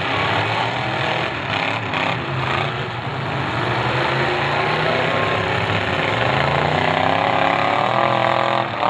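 Several demolition derby cars' engines running loud and rough at once, their pitches wavering; about halfway through one engine revs up and holds a higher, louder note.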